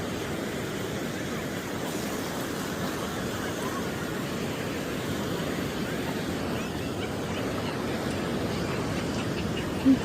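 Ocean surf washing onto the beach, a steady rushing with no break, and a short sound right at the end.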